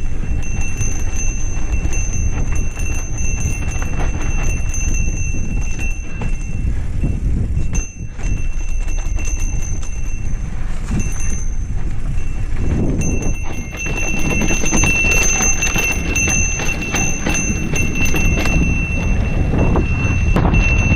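Mountain bike riding over a rough dirt trail, the bike clattering and rattling over bumps, with wind rumbling on the microphone. The riding briefly eases about eight seconds in and turns rougher and denser about halfway through.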